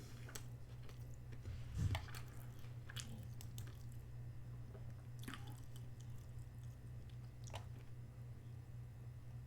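A person chewing and biting food close to the microphone: irregular short wet clicks and smacks, the strongest a little under two seconds in. A steady low hum runs underneath.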